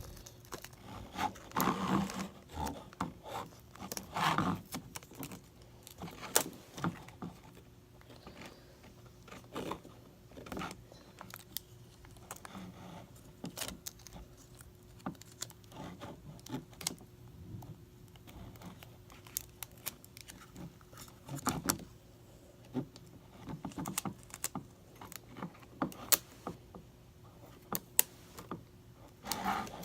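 Sticky tape being pulled, torn and pressed down by hand: scattered rustles, crinkles and small clicks and taps, with a faint steady hum underneath.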